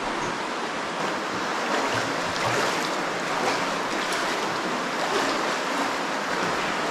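Steady rush of a cave spring stream running high after heavy rain.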